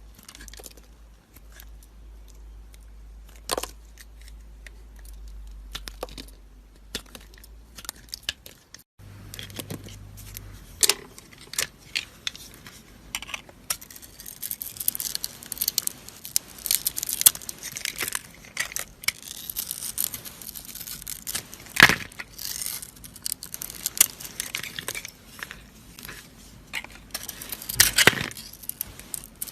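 Knife cutting and carving dry soap: crisp crunches and crackles that change abruptly about nine seconds in and become dense in the second half, with two louder snaps near the end.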